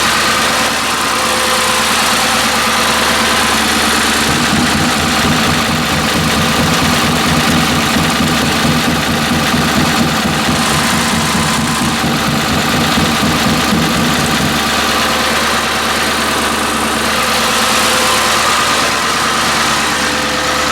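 7.3-litre Power Stroke turbo-diesel V8 idling just after a cold start, having sat all winter. Its low, pulsing note grows stronger from about four seconds in and eases back about ten seconds later.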